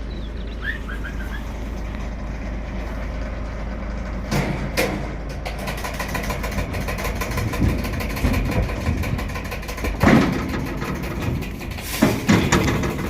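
Truck engine idling with a steady low rumble, with a few short bird chirps in the first second. From about four seconds in come irregular knocks and clatters, loudest about ten and twelve seconds in.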